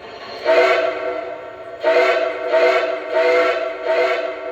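Lionel Legacy Southern Atlantic model steam locomotive's onboard sound system playing its whistle tone 1, a multi-note steam whistle: one long blast followed by four shorter blasts.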